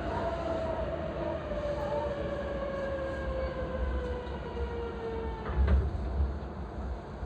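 E233-3000 series electric train braking to a stop, its motor whine falling steadily in pitch over the rumble of the car. A short jolt about five and a half seconds in as it comes to rest.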